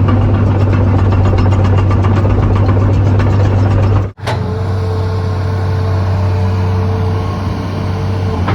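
Heavy diesel engine running steadily with a low hum. About four seconds in the sound cuts abruptly to another engine, now with a steady high whine over it.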